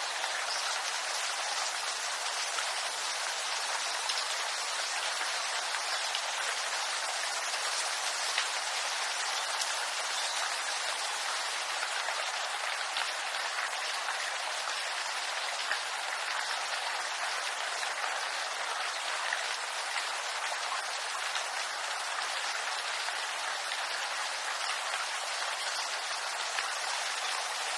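Steady rain falling through a bamboo grove: an even hiss of drops on leaves, with single louder drops here and there.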